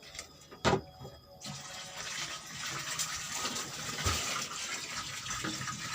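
A single knock, then, about a second and a half in, water starts running steadily, like a tap or hose filling a tub.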